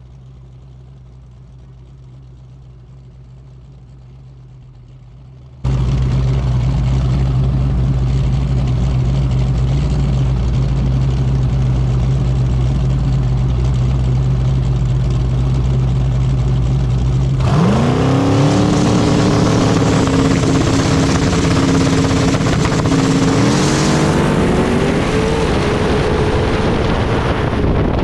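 Drag-race engine running: a steady idle that gets suddenly much louder about five seconds in. About 17 seconds in the car launches, and the engine note rises and holds, then climbs again a few seconds later as it accelerates down the track.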